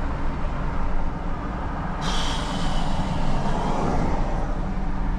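Tow truck engine and road noise heard from inside the cab while driving, a steady low rumble. A brief hiss starts suddenly about two seconds in and fades out.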